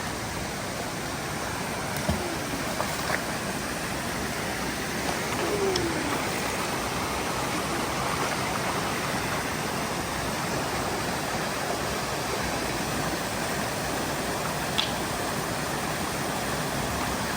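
Mountain stream running steadily over rocks, with a few light knocks.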